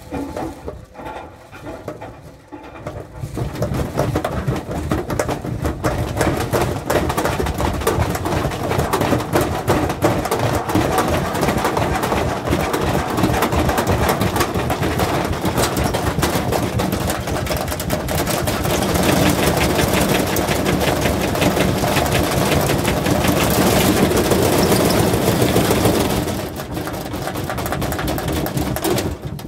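Washing machine running hard with a loud, dense rattling clatter, most likely the drum spinning. It builds up about three seconds in and drops away a few seconds before the end.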